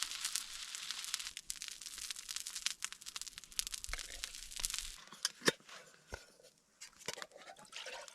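Packaging being crinkled and torn open, a crackly rustle for about five seconds, followed by a few sharp clicks and taps.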